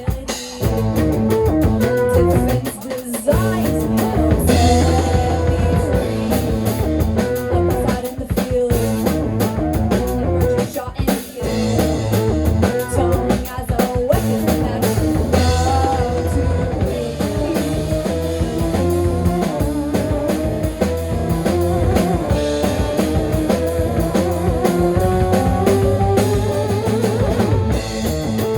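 Live rock band playing, with a drum kit and guitars.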